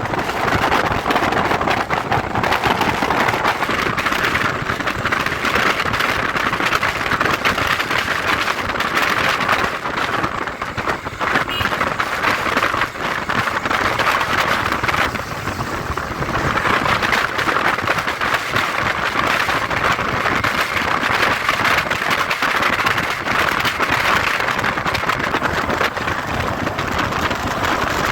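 Steady rush of wind and road noise on the microphone of a moving motorcycle, swelling and easing every few seconds, with the bike's engine underneath.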